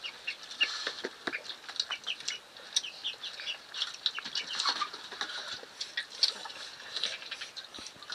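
Small birds, such as chicks, chirping rapidly and continuously in short high peeps, with scattered light clicks of fingers and rice against metal plates.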